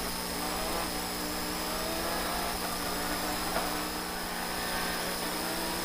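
Citroën DS3 rally car's engine running steadily under way, heard from inside the cabin, its pitch shifting only slightly.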